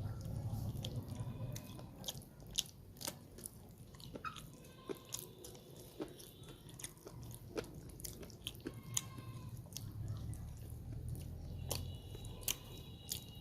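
Close-miked chewing and biting of chicken curry with rice, with a low chewing rumble and many sharp crunches and clicks from biting.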